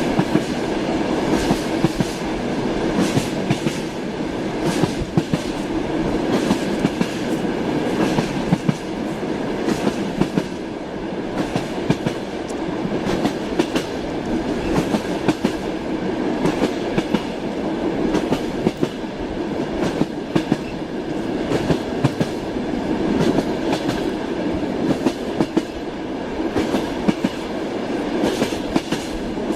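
Train wheels clattering over rail joints, with a continuous rumble of the moving train and frequent irregular clicks.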